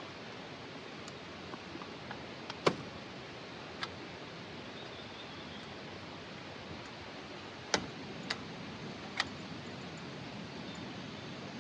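Wood campfire crackling, with a few sharp, irregular pops over a steady hiss; the loudest pop comes nearly three seconds in.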